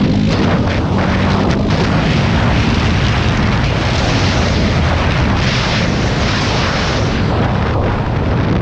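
Loud, steady rush of wind buffeting the microphone while riding a dirt bike, with the bike's engine running underneath.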